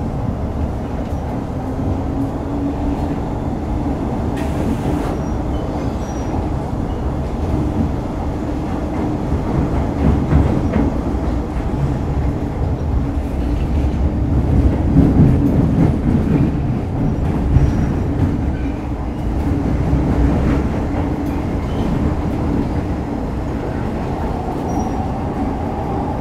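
Running sound inside an MTR Metro-Cammell M-Train EMU car with GEC GTO chopper traction: wheels rumbling on the rail under a steady low traction hum. It grows louder to a peak about halfway, and near the end a higher tone begins to rise.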